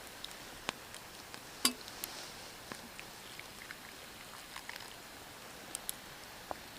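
Campfire crackling: scattered sharp pops and clicks at irregular intervals over a faint hiss, with one louder pop about a second and a half in.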